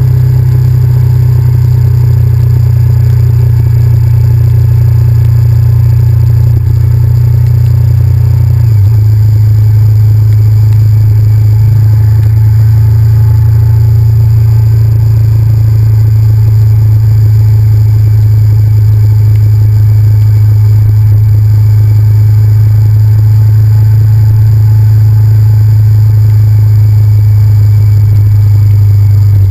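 Honda VTR1000F's 90-degree V-twin engine running steadily under way, heard from the bike itself. The pitch drops slightly about nine seconds in, then holds steady.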